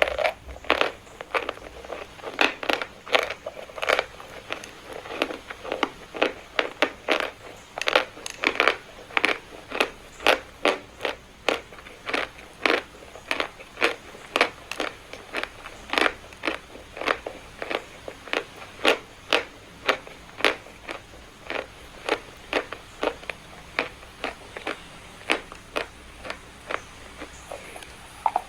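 Someone biting and chewing dry chalk: a steady run of sharp, crisp crunches, about two or three a second.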